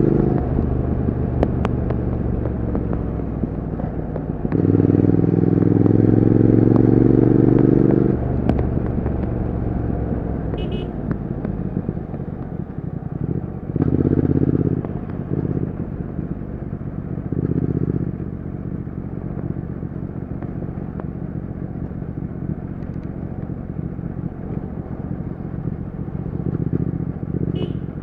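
Triumph Speed Twin 1200's 1200 cc parallel-twin engine and exhaust, the bike being ridden. The engine rises in pitch under a strong pull of throttle about five seconds in and gives two short bursts of throttle around the middle. Otherwise it runs at a lower, steadier level off the throttle.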